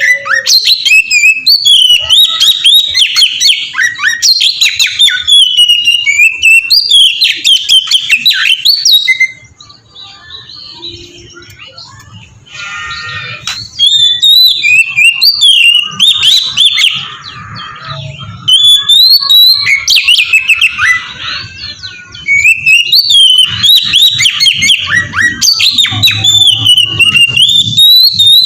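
Oriental magpie-robin singing loud, rapid, varied whistled phrases with sliding notes. A quieter lull of a few seconds falls about a third of the way in before the song resumes.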